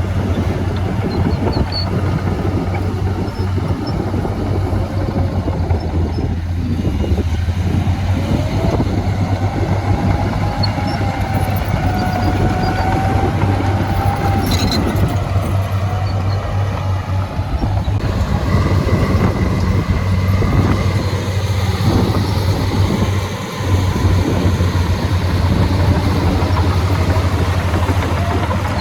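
Heavy diesel earthmoving machinery running steadily under load, with a wavering whine that rises and falls in the middle.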